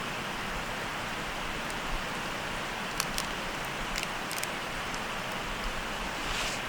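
Steady hissing noise with a few sharp crackling pops, about three to four seconds in.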